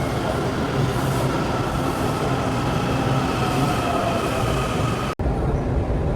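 Subway train running with a steady rumble of wheels on track and a faint falling squeal. An edit cuts it off abruptly about five seconds in, and a similar steady rumble follows.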